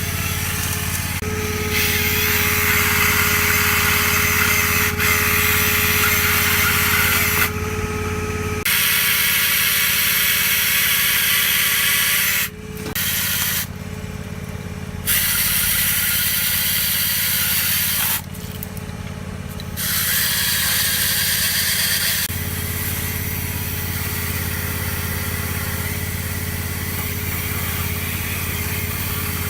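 Hydraulic chainsaw running in spells, its chain noise cutting out briefly several times, over the steady hum of the boat's engine turning at low RPM to drive the saw's hydraulics.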